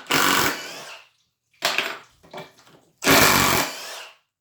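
Milwaukee M18 brushless impact driver run in three short trigger bursts, each starting suddenly and winding down.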